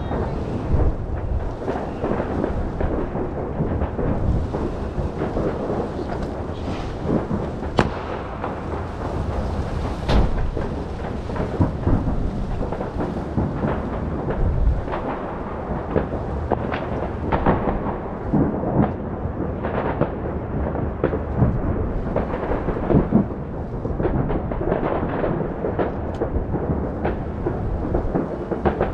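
Fireworks display: a dense barrage of overlapping booms that rumbles continuously, with many sharp bangs through it.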